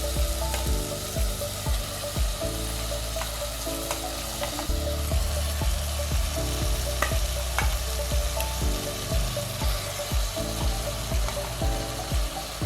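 Marinated chicken sizzling in ghee with fried onions and tomatoes in a pot, stirred with a spoon that clicks against the pot now and then.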